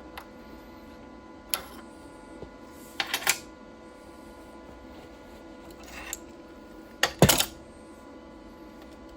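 Short metallic clicks and clinks from steel parts and tools being handled, in about five separate bursts, two of them quick clusters of several knocks, over a steady shop hum with a few fixed tones.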